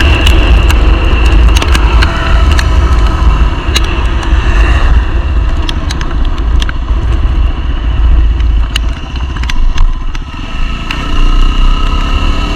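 Yamaha WR250R's single-cylinder engine running under way, with a heavy wind rumble on the microphone and scattered sharp ticks. The sound eases about ten seconds in, then picks up again.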